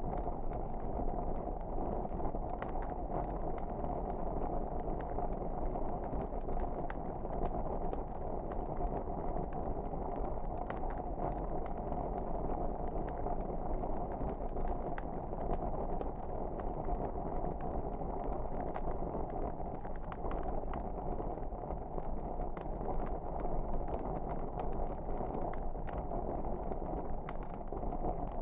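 Wood fire crackling: a steady low rush of burning with scattered sharp pops and crackles throughout.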